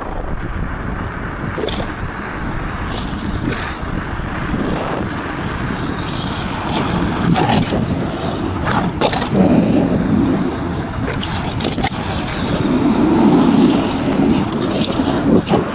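Motorcycle engine running while riding, with rattles and clicks over the steady rumble; it swells louder twice, once past the middle and again near the end.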